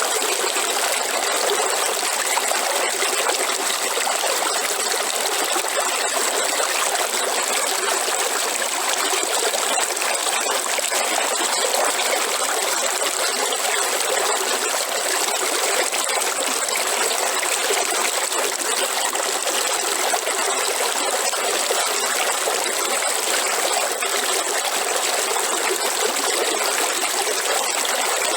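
River water running and trickling in a steady, unbroken rush, with a thin, high steady note over it.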